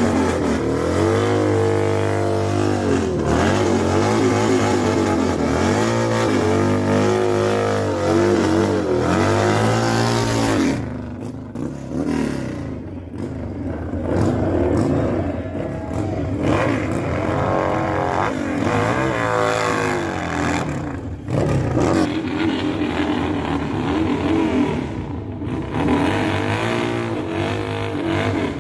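Motorcycle engines revving, the pitch repeatedly rising and falling, with several long revs in the first third and then less regular engine noise.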